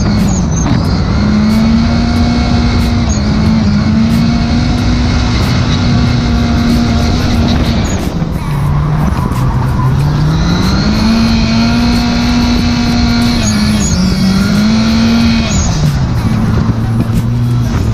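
Drift car engine held at high revs through a drift, with tyres squealing. The revs drop and climb back up about halfway through, then fall to a lower steady pitch near the end.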